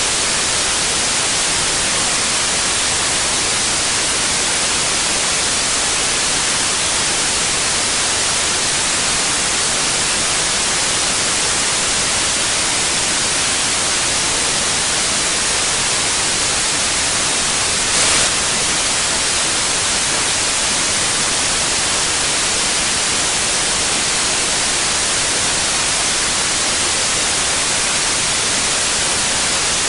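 Steady white noise: an even, unbroken hiss, brightest in the treble, with a brief slight swell about eighteen seconds in.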